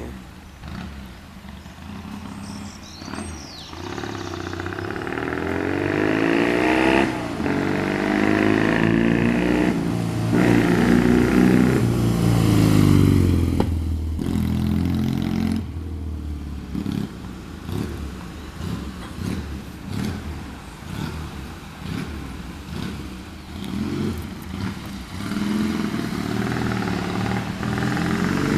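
1956 BSA Golden Flash 650 cc parallel-twin motorcycle engine running. It grows louder over the first dozen seconds, then drops off suddenly at about sixteen seconds to a quieter, uneven beat.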